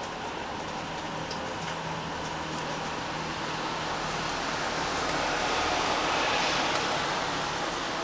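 Steady rain falling, with a vehicle passing on the wet road: the noise swells about five seconds in, peaks near six seconds, then eases off.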